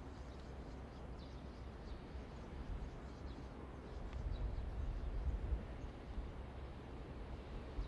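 Quiet trackside ambience: a low steady rumble with a few faint, short bird chirps, swelling slightly a little past the middle.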